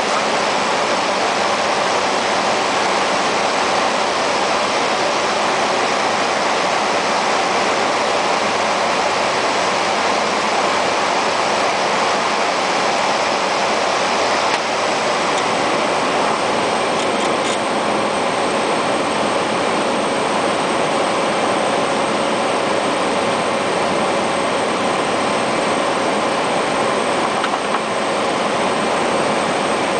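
Cessna Caravan's Pratt & Whitney PT6A turboprop engine running steadily: a loud, even rushing noise with a thin high whine that comes in about halfway through.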